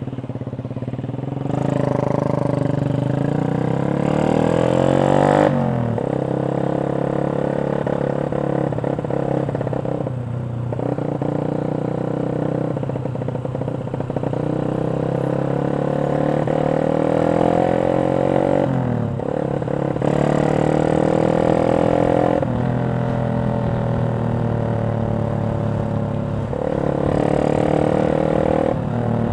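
Yamaha Jupiter MX 135's single-cylinder four-stroke engine through a CLD X Monster aftermarket racing exhaust, accelerating on the road: the pitch climbs, then drops sharply at each gear change, about five times.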